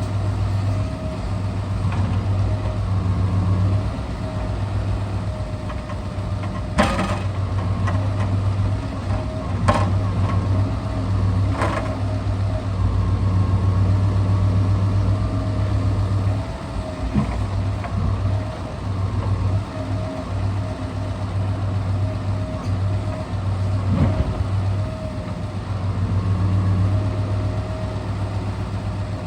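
Scania R650 truck's V8 engine running steadily during timber loading with the crane. It is a low, even drone, broken by a few sharp knocks spread through.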